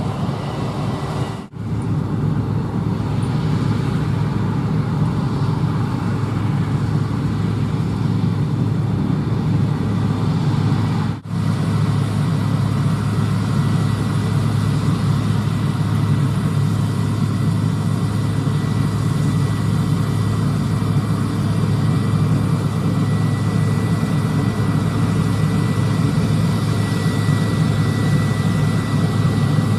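Diesel engines of harvest machinery running steadily, with a thin high whine over the drone. The sound drops out for a moment twice, about one and a half seconds and eleven seconds in.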